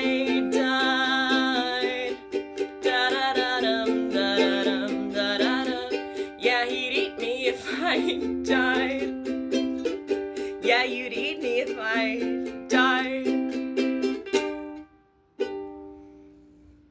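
Ukulele strummed chords in an instrumental outro, ending on a final chord about fourteen seconds in, then one last plucked note that rings out and fades.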